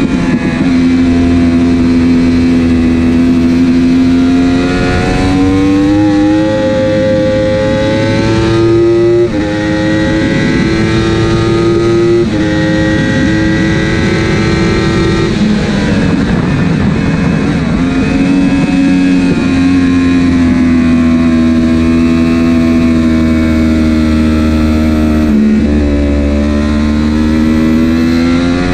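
Racing superbike engine at full race pace, heard on board. The engine note climbs and drops sharply at each gear change several times, and holds a steadier, slowly falling note for a few seconds past the middle.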